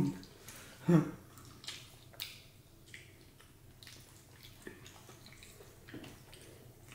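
Close-up eating sounds: faint wet clicks and squishes of chewing and mouth smacks, scattered irregularly. Two short, louder low sounds come in the first second.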